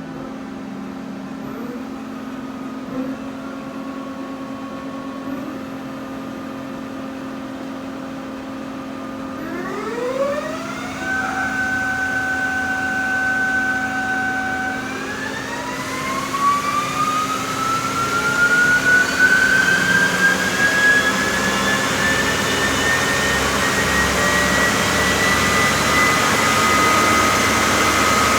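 Doosan Puma 400LC CNC lathe running under power: a steady machine hum, then about nine seconds in a motor whine rises and holds, and from about fifteen seconds it climbs slowly and steadily higher and louder, as of the spindle speeding up.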